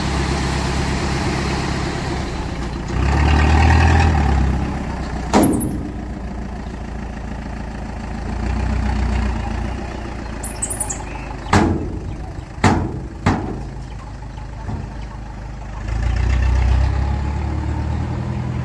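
Small bulldozer's diesel engine running, rising in level under load three times, with four sharp metallic clanks in the middle stretch.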